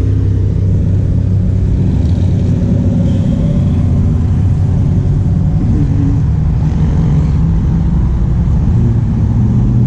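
Loud, steady low rumble of a car engine running slowly, with no revving.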